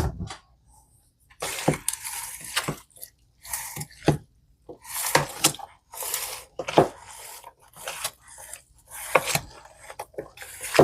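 A big spoon stirring chicken salad in a bowl: repeated wet, squishy strokes with sharp clicks of the spoon against the bowl, roughly one a second.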